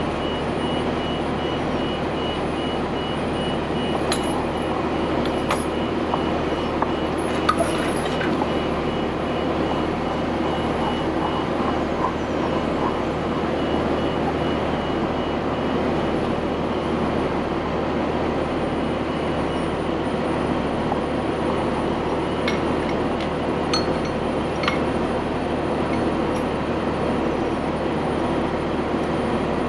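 Heavy truck diesel engine running steadily, with a few light metallic clinks scattered through.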